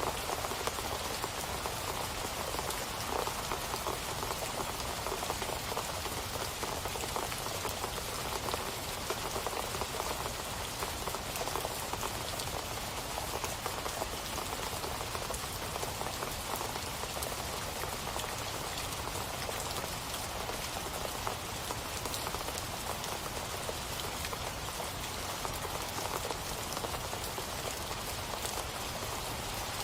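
Steady rain falling on a surface, a dense even patter of drops with no change in strength.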